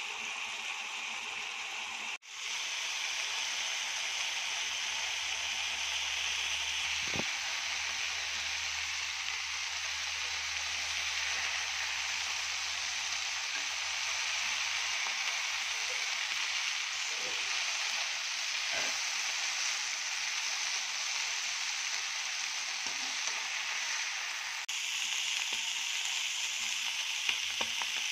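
Silkworm pupae sizzling steadily as they stir-fry in a hot wok, with a few faint knocks of a metal spatula turning them. The hiss cuts out for an instant about two seconds in.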